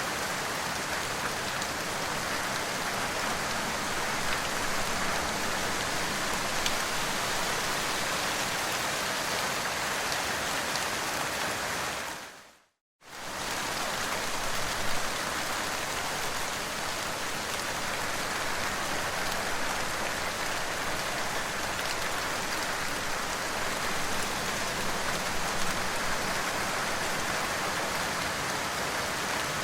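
Steady, dense rainfall hissing, with a few faint drop ticks. About halfway through, the rain fades out to silence for a moment and then comes straight back.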